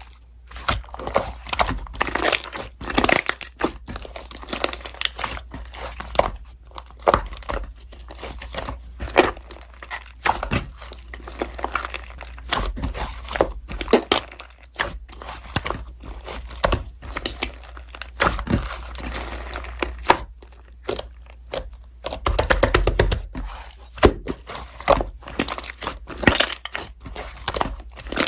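Slime being squeezed, stretched and folded by hand, giving a dense run of irregular clicks, crackles and small pops.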